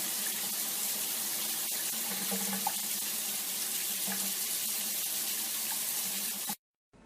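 A steady rush of running water that cuts off suddenly near the end.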